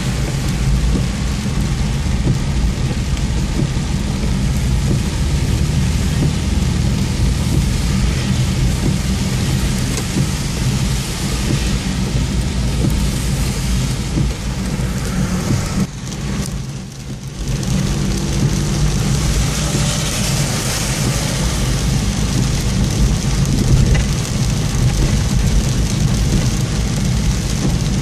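Heavy rain drumming on a moving vehicle's roof and glass, with a steady engine hum underneath. The rain noise dips briefly about two-thirds of the way through.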